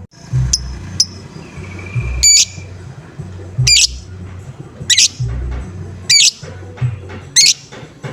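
Lovebird giving loud, harsh 'ngoek' calls, five in a row about every second and a half, after two short chirps near the start. Background music with a low beat runs underneath.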